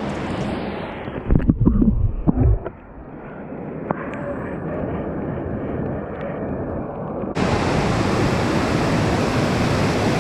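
Steady rush of waterfall water, with wind buffeting the microphone a second or two in. The rush jumps suddenly louder and fuller about seven seconds in.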